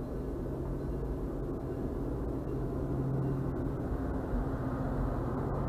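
MBTA commuter rail coaches rolling past on the tracks, heard muffled from inside a parked vehicle: a steady rumble with a low hum, growing slightly louder.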